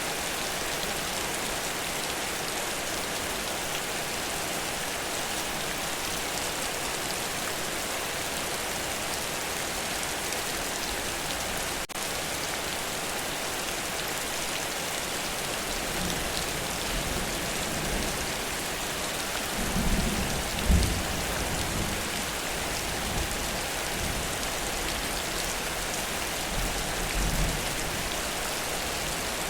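Heavy rain falling in a steady, dense hiss. Low rumbles of thunder swell in about halfway through, loudest around two-thirds of the way, with a shorter rumble near the end.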